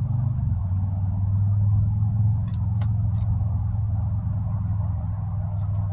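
A steady low machine rumble, like a motor running, with a few faint light clicks in the middle and near the end.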